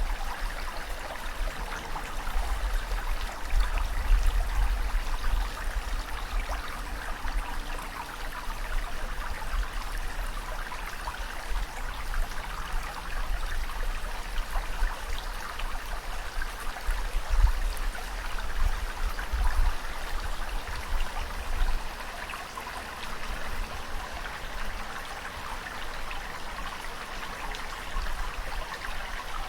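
Continuous rushing, trickling water ambience, with deeper low rumbles swelling a few seconds in and again past the middle.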